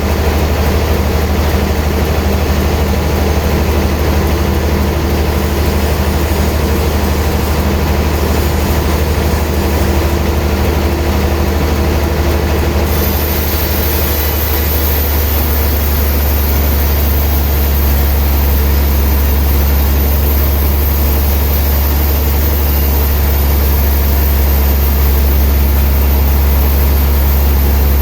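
Heavy sawmill machinery running with a steady, loud low drone. A high hiss joins about halfway through.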